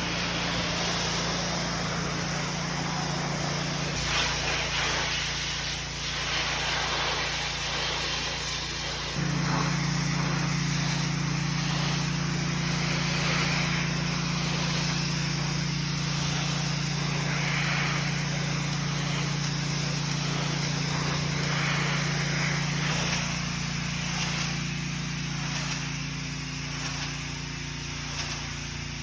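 Pressure washer running, a steady engine drone with the hiss of the high-pressure water spray. The engine note jumps abruptly a few times.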